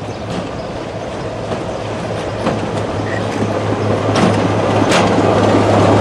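Train running on the line and getting louder as it comes closer, with a steady low hum and wheels clicking over rail joints a few times.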